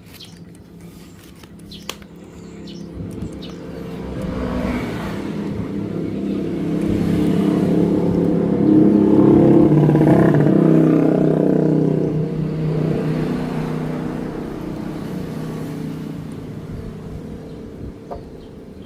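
A motorcycle engine passing by: its sound grows steadily louder to a peak about halfway through, then fades away again.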